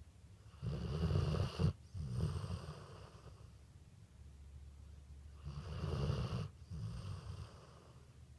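Dog snoring: two long snoring breaths about five seconds apart, each in two parts with a short break between them.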